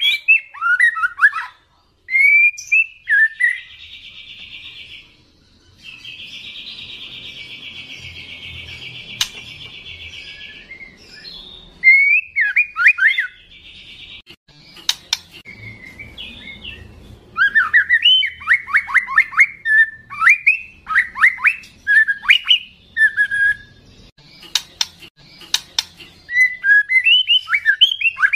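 Young speckled white-rumped shama singing loudly: varied whistled phrases of quick falling notes, broken by two long buzzy rattles in the first half. The longer rattle lasts about four seconds.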